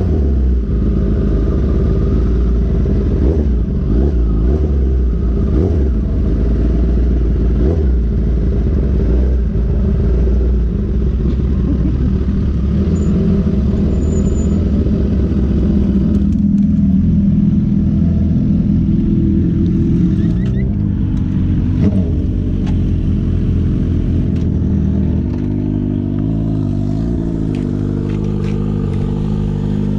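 Motorcycle engine running under way, with heavy wind noise over the microphone. Just past the halfway point the wind drops off, and the engine settles into a lower, steadier note for the last few seconds.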